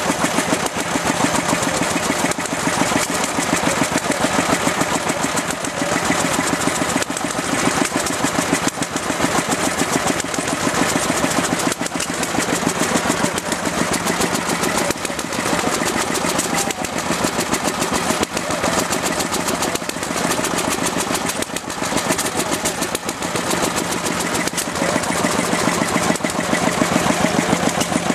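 Antique engine running with a rapid, even firing beat.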